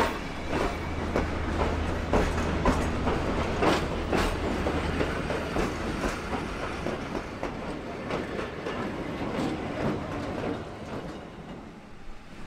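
Passenger train carriages rolling slowly past, their wheels clicking and clacking over the rail joints at an uneven pace. A low steady hum sits beneath through the first half, and the sound fades away near the end.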